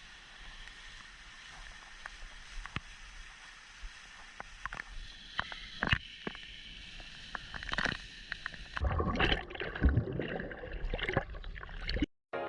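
Running stream water with scattered clicks and small splashes, turning into louder, busier sloshing and splashing about nine seconds in as someone wades along the stream bed; it cuts off suddenly near the end.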